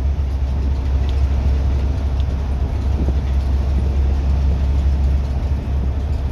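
Scania N230UD double-decker bus's five-cylinder diesel engine running under way, a steady low drone with road rumble over it.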